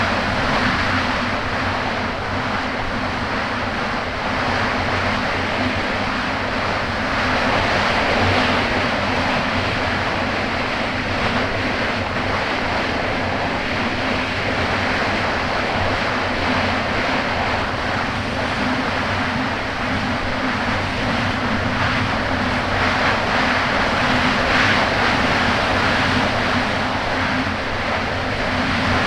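Kawasaki Ultra 300X jet ski's supercharged four-cylinder engine running steadily under way, with water rushing and slapping against the hull and wind buffeting the microphone.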